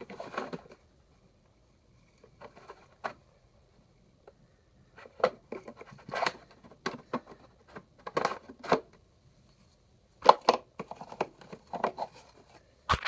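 Irregular clicks, knocks and short scrapes of a vacuum cleaner being handled with its motor off, some of them sharp single clicks, with short pauses between clusters.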